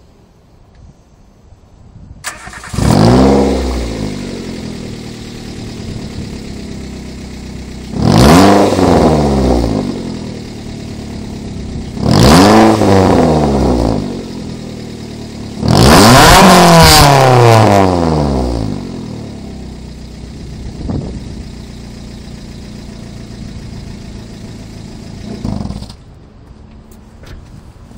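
Subaru R2's engine on a straight-piped front pipe and STI muffler, very loud. It starts about two seconds in and is revved four times, the pitch falling back to idle after each, the fourth rev the longest. It is shut off near the end.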